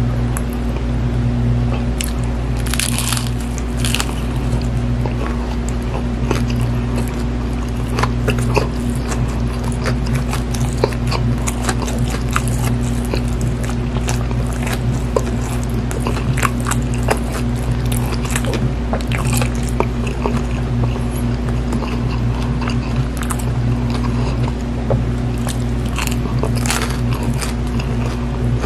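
Close-miked biting and chewing of a crispy breaded fried chicken sandwich: crunchy bites and wet mouth clicks, with the loudest crunches about three and four seconds in. A steady low hum runs underneath throughout.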